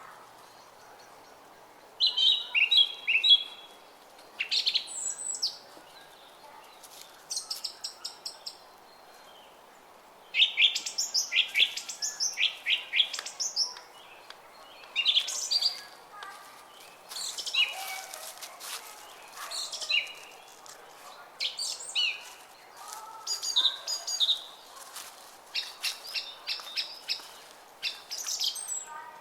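Small songbirds chirping and twittering in frequent short bursts of quick high notes, over the faint steady murmur of a brook.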